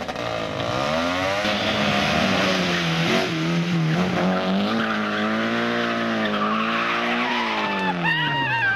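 Competition car engine revving hard, its pitch climbing and dropping back repeatedly with gear changes, then falling away as the car slows near the end, with a brief high tyre squeal.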